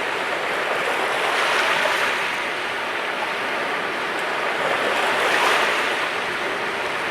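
Sea waves washing onto the shore in a steady noisy wash, swelling twice as waves break, about two seconds in and again near the end.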